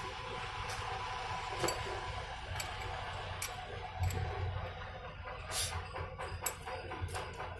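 Scattered light clicks and taps of tools and metal parts being handled during engine assembly, about one a second, over a steady low hum.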